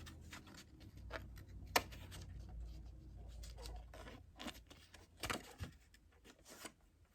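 Faint paper-and-plastic handling: a drinking straw being threaded through slits in a paper sail, with scattered small clicks and rustles that thin out over the last couple of seconds.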